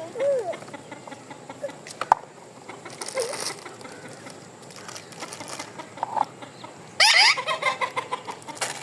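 Bird calls: a short arched call near the start and a loud, harsh squawk about seven seconds in, with a sharp click about two seconds in.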